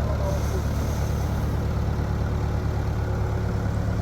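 A steady low mechanical rumble, like an engine running at idle.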